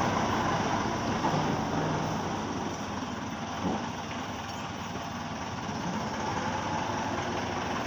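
Massey Ferguson tractor's diesel engine running steadily as it pulls a stuck wooden trailer. It eases off slightly in the middle, then picks up again.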